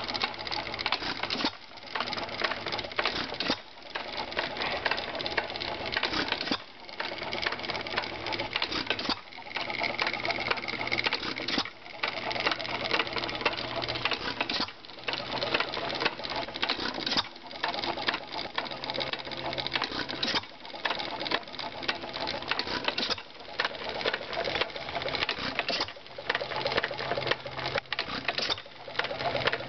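1909 Associated Busy Boy single-cylinder hit-and-miss gas engine running, a fast, busy mechanical clatter that dips briefly about every two to three seconds.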